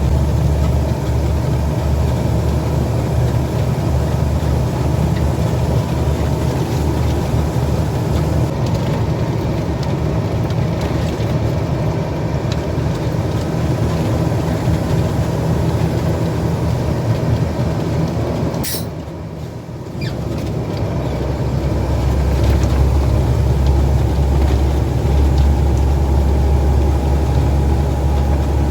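A heavy truck's diesel engine running with a steady low drone. About two-thirds of the way through there is a sharp click, and the engine sound drops off for about a second before building back up.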